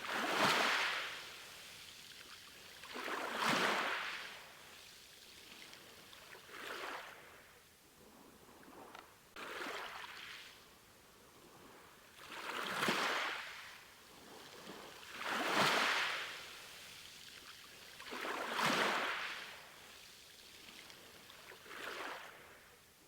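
Sea waves washing onto a shore: a hissing surge swells and falls away about every three seconds, eight times in a row.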